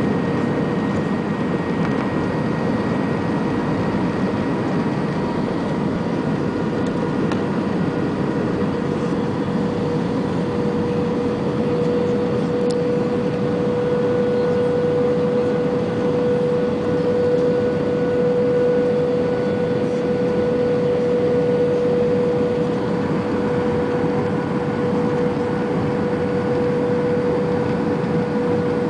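Aircraft in flight heard from inside: a steady drone of engines and rushing air, with a steady whine over it.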